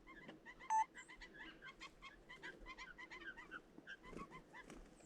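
Faint, dense chorus of short bird calls, several a second, with many birds calling over one another.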